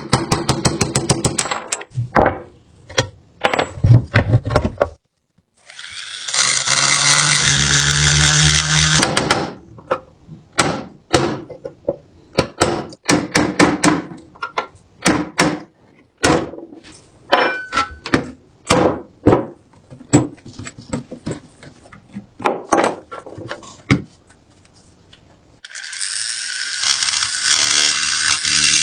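Restoration workshop sounds on a rusted submachine gun: many sharp clicks and knocks of metal parts being handled, with a power tool running for about three seconds starting some six seconds in. A steady hiss starts near the end.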